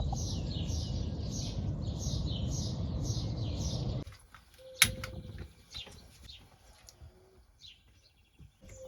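A small bird singing a quickly repeated falling note, about three a second, over a steady low rumble. After about four seconds this cuts off abruptly to a quieter stretch with one sharp click and a few faint chirps.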